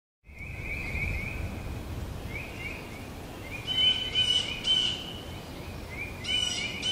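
Birds calling in woodland: a repeated series of high chirps, with louder, sharper calls about four seconds in and again near the end, over a low rumbling background. The sound begins abruptly just after the start.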